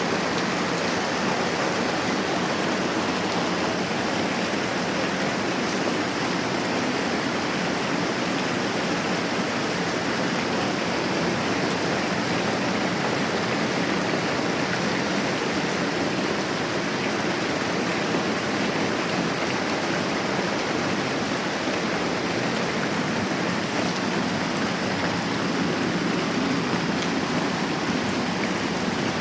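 Moderate rain falling steadily.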